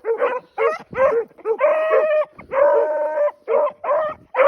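A pack of young hunting hounds barking and bawling over one another in quick succession, short barks mixed with a few longer drawn-out bawls.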